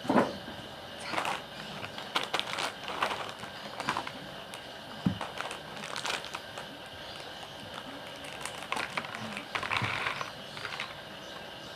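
Mukbang eating sounds: irregular clicks and crinkling as food is handled with chopsticks.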